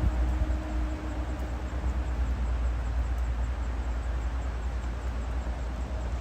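Wind rumbling and buffeting on the microphone of a camera carried on a moving bicycle, with a faint steady hum for about the first two seconds.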